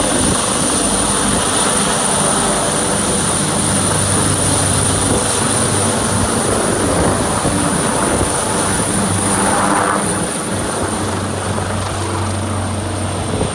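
Helicopter running steadily: a continuous dense noise of rotor and engine with a low steady hum and a thin high whine above it, easing off slightly near the end.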